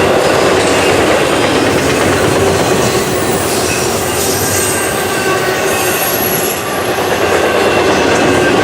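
Freight train cars rolling past close by: a steady loud rumble and rattle of steel wheels on rail, with thin high squeals from the wheels coming and going.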